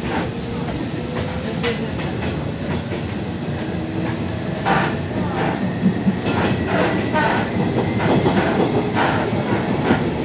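Nishitetsu 2000 series electric train heard from inside the passenger car: steady running noise, with a faint traction-motor whine that rises slightly in pitch over the first couple of seconds. From about halfway in, the wheels click over rail joints in a quickening clickety-clack as the train gathers speed.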